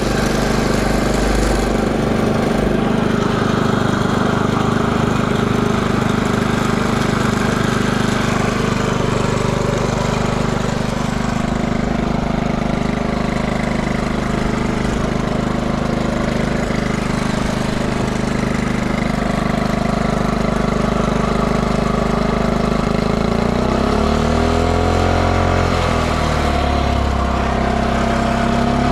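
Early Honda C70 'andon' Cub's small four-stroke single-cylinder engine idling steadily, then revved several times near the end, its pitch rising and falling with each blip. It runs without odd noises and revs up cleanly.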